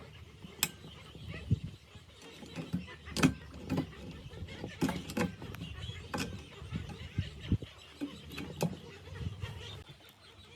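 A series of irregular knocks and clicks, a dozen or so spread unevenly, a few of them sharp and loud, as of metal tool and machine parts being handled and worked on.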